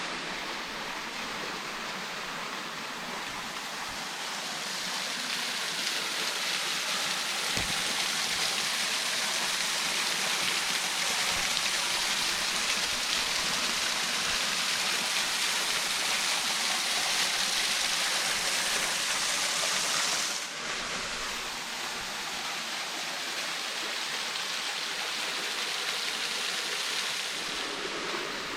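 Waterfall on a stream, water falling and rushing in a steady hiss. It drops slightly in level about twenty seconds in.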